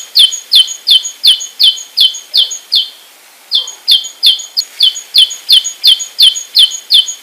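Great tit singing: a fast, even run of short high notes, each dropping in pitch, about three a second, with a brief break about three seconds in.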